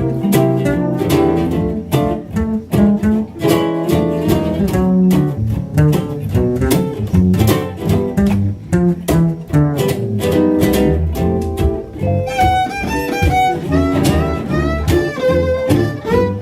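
Western swing band playing an instrumental break: fiddles and guitar over strummed rhythm guitar chords and a walking bass. About two-thirds of the way through, a higher sliding fiddle-like melody line comes to the fore.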